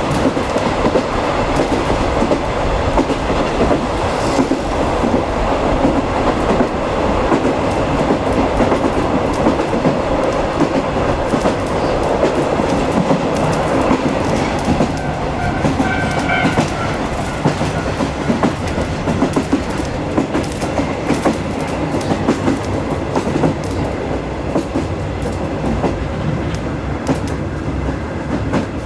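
Running noise heard from inside a 50 series passenger coach hauled by a DD51 diesel locomotive: a steady rumble with the wheels clicking rhythmically over rail joints. A brief ringing tone sounds about halfway through.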